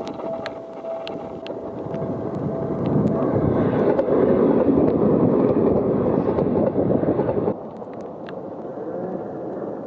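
Electric train passing close by in rain and strong wind. The rushing noise builds to its loudest about three seconds in and drops away suddenly after about seven and a half seconds.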